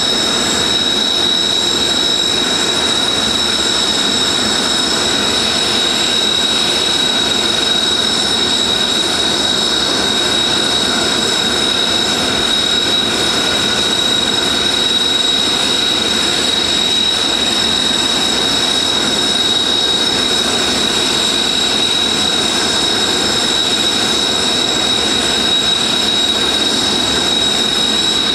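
Jet engines of Blue Impulse Kawasaki T-4 trainers running on the ground: a steady, loud rush of noise with a constant high-pitched whine.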